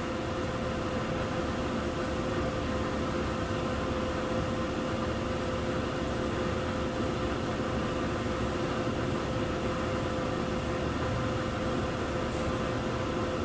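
Textile dyeing-plant machinery running: a steady mechanical hum with a constant mid-pitched tone held throughout.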